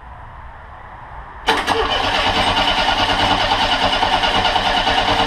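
Monster trike engine being cranked over by its starter, starting abruptly about a second and a half in and going on steadily with an even rapid beat, without clearly catching: he says just after that it has lost spark.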